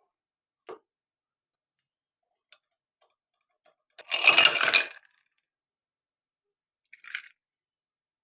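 Household objects being handled: a single click, then a short loud clatter of quick knocks about four seconds in, and a brief clink near the end.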